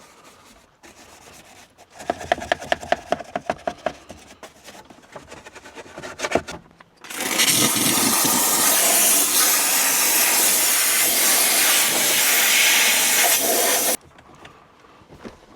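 Brush scrubbing a vehicle interior surface in quick back-and-forth strokes, about four or five a second. It is followed by a loud, steady hiss from a detailing tool's jet that starts about seven seconds in and cuts off sharply seven seconds later.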